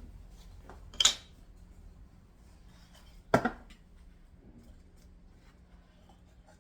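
Two sharp clacks of hard objects being handled or set down, about two and a half seconds apart, with a few faint ticks between them.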